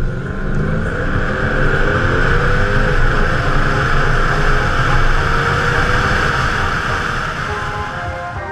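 Mercedes-AMG car accelerating hard down a runway from a launch. The engine climbs in pitch, drops at an upshift about three seconds in, climbs again and then levels off. Heavy wind rushes over the exterior-mounted microphone.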